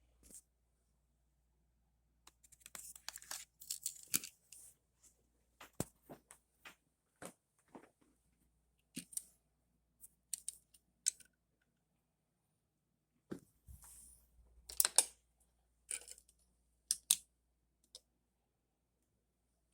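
Scattered clicks, taps and short scrapes of small diecast toy cars and track parts being handled and set in place, in two busy spells with quiet between.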